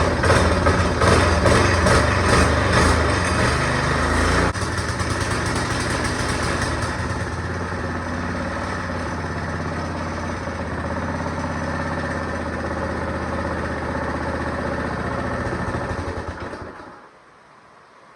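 Small go-kart engine running, louder for about the first four seconds, then settling to a steadier, lower speed before dying away about 17 seconds in.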